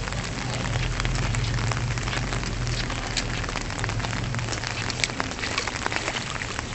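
Water heard outdoors: a steady hiss of splashing water dotted with many small drips and splashes, over a low steady rumble.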